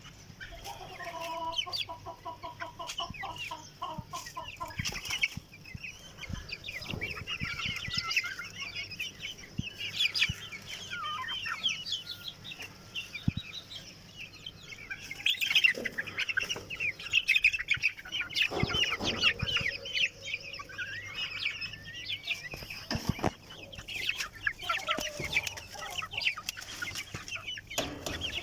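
Chickens in a flock clucking, with many overlapping high chirping calls throughout and a quick run of lower clucks in the first few seconds.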